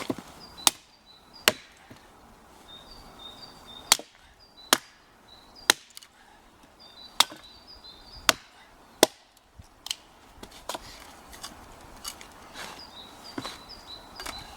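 Small sharp hatchet splitting short chunks of firewood: a series of sharp chops, loudest and most frequent in the first nine seconds, then lighter strikes.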